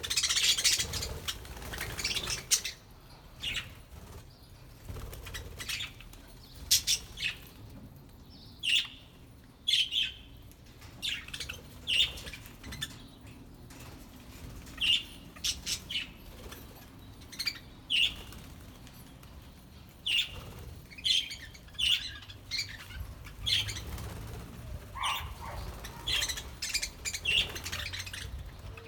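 Budgerigars in an aviary flapping their wings in a flurry during the first couple of seconds, then chirping in short, scattered high calls.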